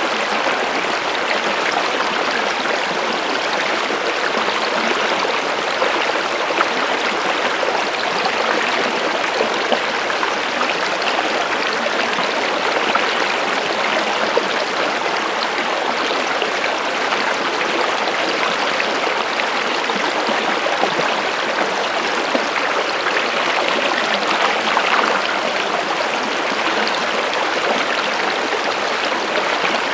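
Flowing stream water: a steady, even rush with small splashes here and there.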